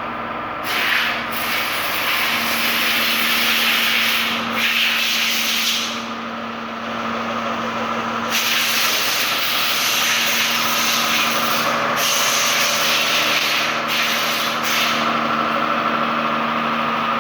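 Car engine idling with a steady hum, overlaid several times by stretches of loud hissing, rubbing noise lasting a second to a few seconds each.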